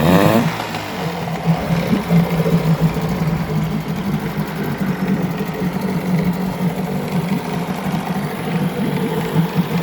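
1975 Mercury 7.5 hp two-stroke outboard motor running steadily and smoothly, freshly serviced and on a 50:1 fuel-oil mix.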